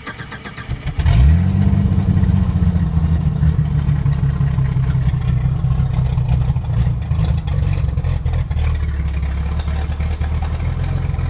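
1988 Jeep Cherokee engine with open headers being started: the starter cranks for about a second, the engine catches and flares up, then settles into a steady, loud idle.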